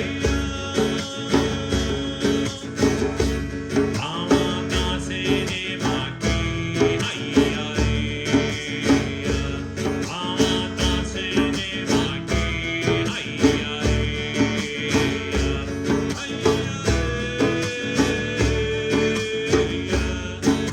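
A song sung over a strummed acoustic guitar, keeping a steady beat of about two strokes a second.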